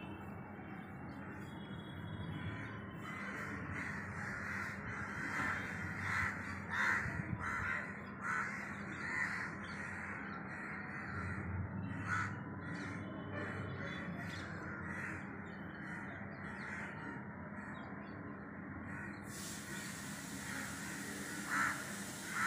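Bird calls, repeated in clusters through the middle and once more near the end, over a steady low hum.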